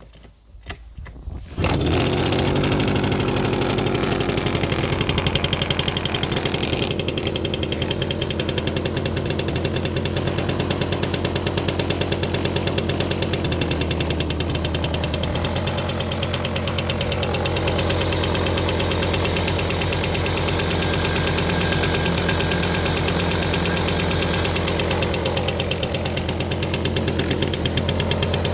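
Riga Stella moped's D-16 single-cylinder two-stroke engine firing up suddenly after a couple of short sounds, then running steadily with an even rapid beat.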